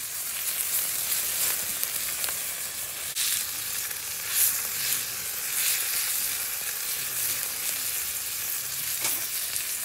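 Sliced beef and turmeric leaves sizzling in hot oil in a cast iron skillet, freshly topped up with oil, with the frying stirred by chopsticks. The sizzle swells briefly about four seconds in.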